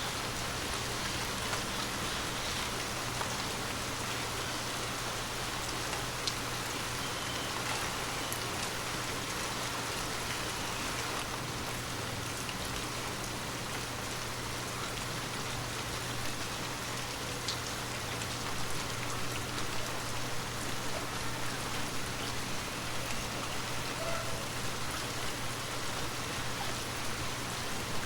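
Water drops pattering steadily on glass, a dense even patter with a few sharper single drips standing out.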